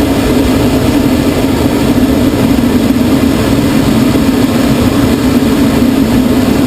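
Steady drone of the tow plane's engine and propeller heard from inside a glider on aerotow, mixed with rushing air, holding one even pitch and level.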